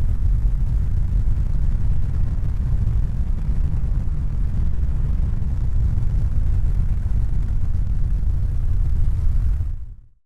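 Steady low rumbling noise, fading out near the end.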